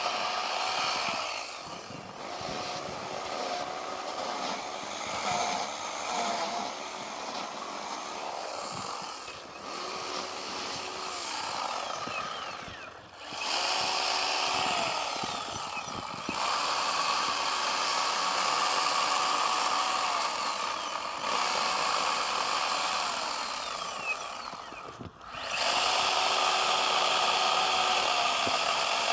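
Chainsaw running and cutting into a block of packed snow, its engine note rising and falling as the throttle is worked. It drops back twice, about halfway through and again near the end, then revs up again.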